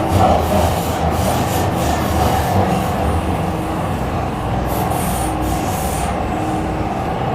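Interior running noise of an MTR Tseung Kwan O line C-Train underway: a steady low rumble with wheel-on-rail rushing and scraping.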